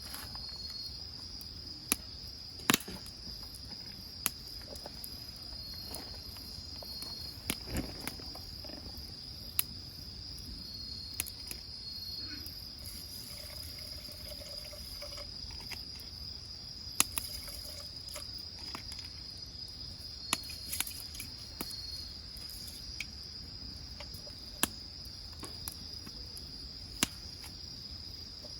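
Firewood burning in a wood grill, with irregular sharp pops and crackles about once every second or two. Underneath is a steady, high insect trill with short chirps.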